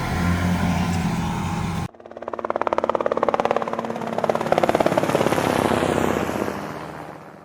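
Snowmobile engine running steadily. About two seconds in the sound cuts abruptly to a rapidly pulsing engine note that rises and falls in pitch, then fades away near the end.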